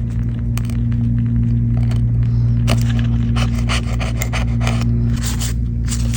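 Small tools scraping and clicking on a phone during a repair, over a steady low hum.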